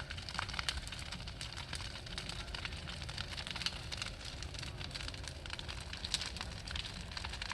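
Bonfire crackling, with frequent sharp pops and snaps scattered through it.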